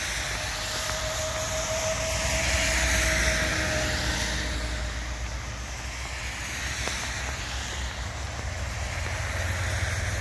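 A VIA Rail passenger train approaching in the distance, its low rumble building toward the end, over a steady hiss of rain and wind. A single long, slightly falling tone sounds through the first few seconds.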